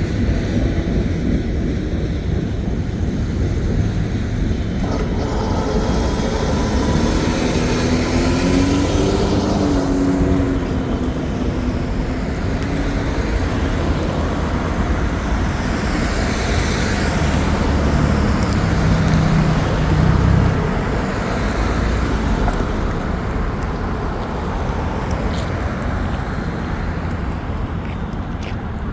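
Road traffic at a railroad crossing: motor vehicles driving past with a steady low rumble and tyre hiss, and a passing vehicle's engine tone rising and falling about a third of the way through.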